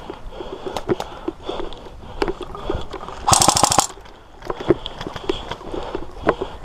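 Airsoft electric gun firing a short full-auto burst about three seconds in, a rapid rattle of roughly fifteen shots a second lasting about half a second, with scattered single clicks and snaps before and after.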